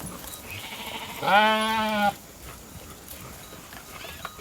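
A sheep bleats once, about a second in, a single call lasting under a second. Behind it are the faint clicks and rustle of the flock eating grain.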